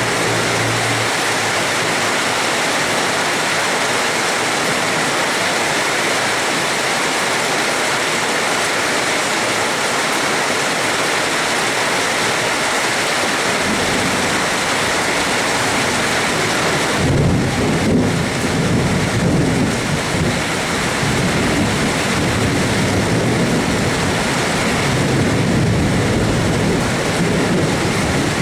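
Steady heavy rain hissing, with a low rolling rumble of thunder that sets in a little past halfway and carries on to the end.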